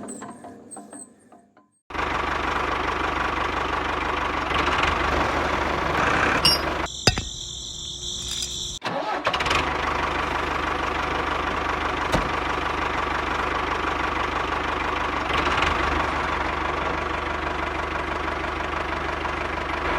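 Miniature engine of a DIY model tractor water pump running steadily, starting suddenly about two seconds in. About seven seconds in it gives way for two seconds to a different sound with high steady tones, then runs on steadily.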